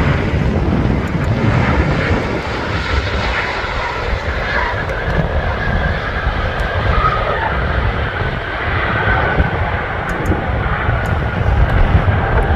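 Jet airliner engines running loud and steady: a deep rumble with a faint wavering whine above it.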